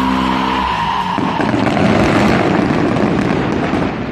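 Aerial fireworks crackling densely as their stars burst and fall, with a sharp bang near the end. A steady pitched drone is heard at first and stops within the first second.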